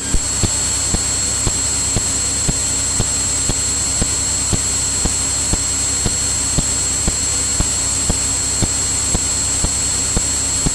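Cirrus single-engine propeller aircraft's cabin noise in flight: a steady drone with a thin high whine, and regular ticks about twice a second.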